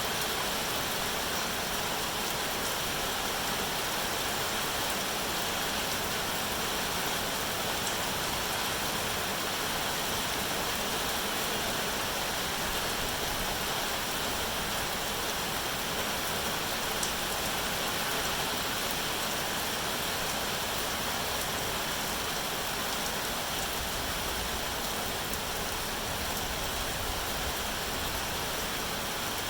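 Steady rain, an even hiss that runs on without change.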